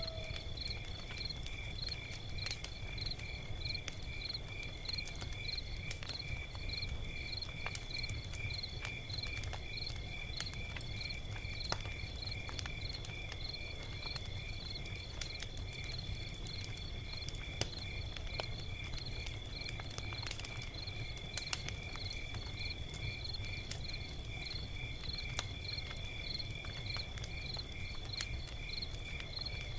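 Log fire crackling with scattered sharp pops over a low rumble, while crickets chirp steadily in a high, even, pulsing rhythm.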